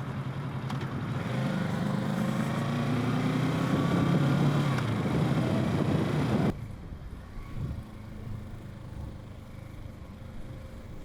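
Kawasaki Z650's parallel-twin engine pulling under throttle, its pitch rising as the bike accelerates. About two-thirds of the way through the sound drops off suddenly to a much quieter, steady low engine hum.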